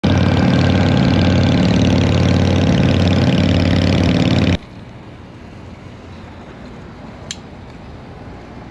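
Chopper motorcycle engine running loud and steady, which stops abruptly about four and a half seconds in. A much quieter background hiss follows, with a single click near the end.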